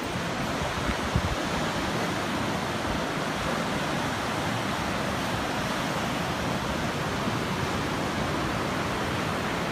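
Steady rushing noise of wind and surf, with one short thump about a second in.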